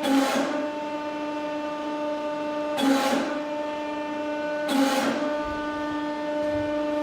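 Hydraulic press pump motor running with a steady whine while it crushes a safety boot's toe cap, with three short crackling bursts about two to three seconds apart as the cap gives under the load.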